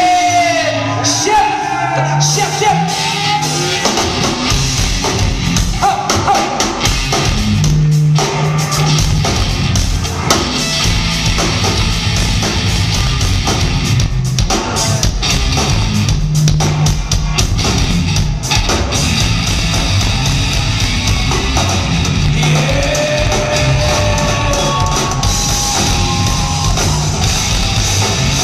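Heavy metal band playing live, the drum kit driving a steady beat. A voice sings over it at times, near the start and again late on.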